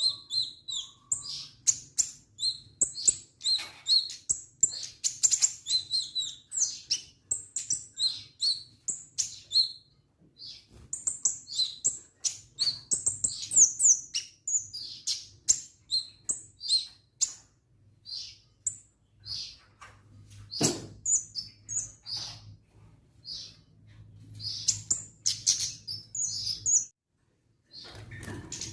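Kemade songbird singing a busy, fast run of high chirps and trills, with a brief pause near the end.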